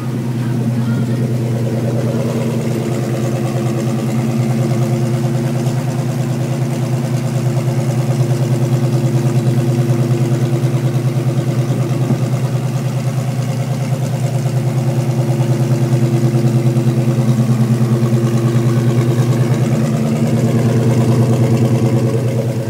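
Chevrolet 350 small-block V8 of a 1978 El Camino SS idling steadily, with an even exhaust pulse.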